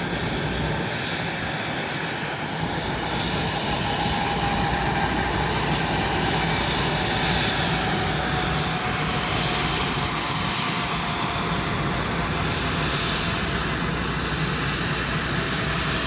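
Westland Lynx helicopter's twin turboshaft engines and rotor running steadily, with a whine that slowly falls in pitch.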